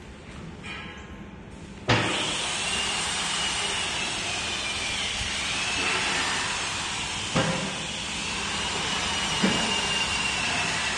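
Water well drilling rig running: a loud, steady hiss starts abruptly about two seconds in, with a faint wavering whine under it and a couple of sharp knocks later on.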